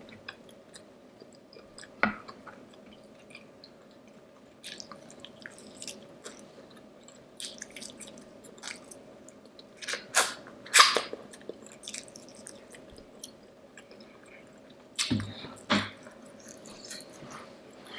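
Close-miked chewing and wet mouth sounds of a person eating, with scattered small clicks and crackles. Louder clusters of smacks come about ten and fifteen seconds in.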